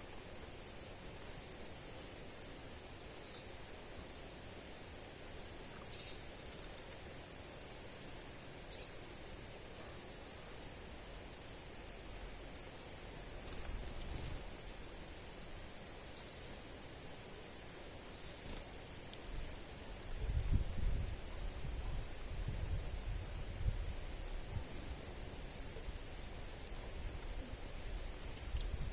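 A small bird calling with short, very high-pitched chirps, repeated irregularly about once or twice a second. A low rumble comes in about two-thirds of the way through.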